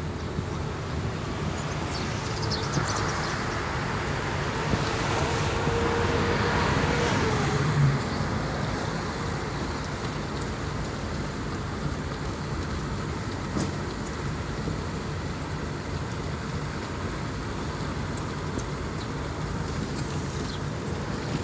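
Road traffic noise, with one vehicle passing close and loudest about six to eight seconds in, then a steady background rumble.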